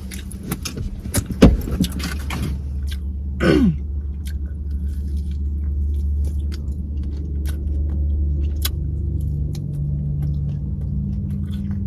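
Clothing rustling, with light clicks and jangles, as a garment is pulled off, over a steady low hum.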